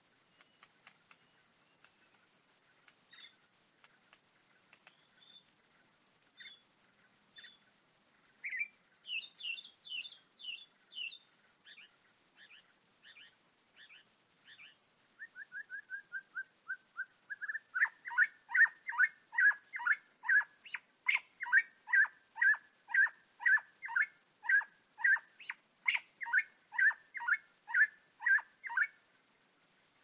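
White-rumped shama calling: scattered chirps, then a short falling trill, then a long run of loud, sharp repeated calls about two a second that stops near the end.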